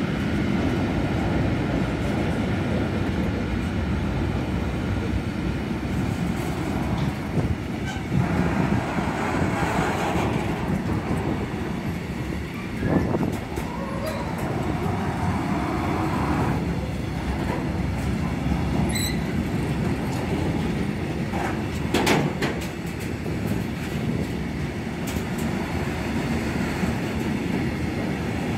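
Container freight train rolling past: a steady heavy rumble of wagon wheels on the rails, with a few sharper knocks, the clearest about halfway through and again about three quarters through.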